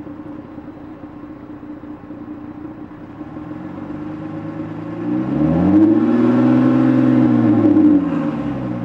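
2010 Dodge Charger SXT's 3.5-litre V6 exhaust with the muffler removed, humming steadily at a cruise. Then it rises in pitch and gets louder as the engine revs up about five seconds in, holds there, and eases back down near the end.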